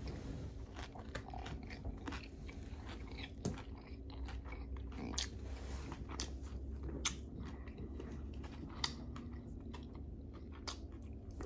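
Close-up chewing of crispy fried hot chicken, with scattered, irregular small crunches and clicks.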